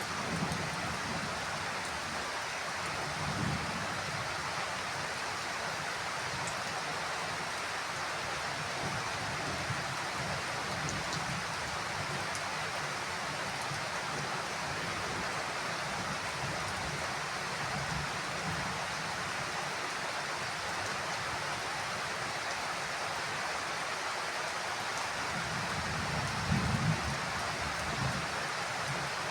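Heavy rain falling steadily on a roof, with low rumbles of distant thunder about three seconds in and again, louder, near the end.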